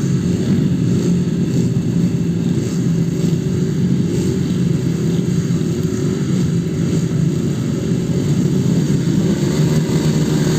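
Motorcycle engines running continuously, wavering slightly in pitch.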